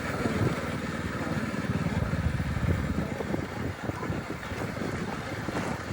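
Small Hero motorcycle running while being ridden over a rough off-road track: an uneven, rumbling engine and ride noise with no steady pitch.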